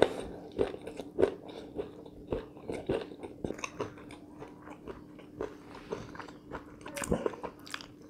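Close-up mouth sounds of chewing pan-fried chicken tail: irregular wet chewing with crisp crunches every fraction of a second.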